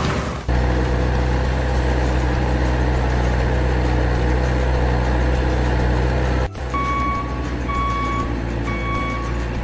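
Heavy truck engine running steadily with a deep drone, cutting off abruptly about six and a half seconds in. A truck's reversing alarm then beeps about once a second.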